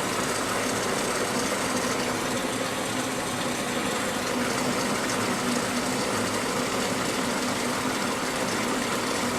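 Whirlpool Duet Sport front-load washer filling for its rinse: a steady rush of water through the inlet valve, with a faint steady hum beneath.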